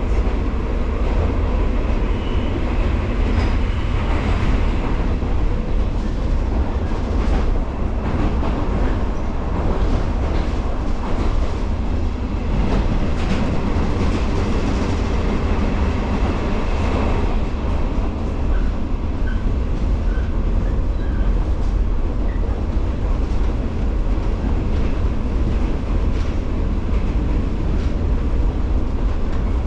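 JR 115-series electric multiple unit running at speed: a steady rumble of wheels on rail and traction motors, with scattered rail-joint clicks.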